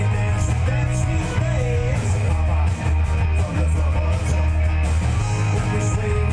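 Live rock band playing amplified electric guitar, bass guitar and drums, with a heavy bass line and regular cymbal hits.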